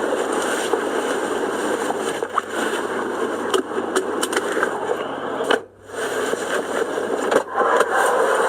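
Steady road noise of a car ride, with a few sharp clicks and a brief dropout about five and a half seconds in.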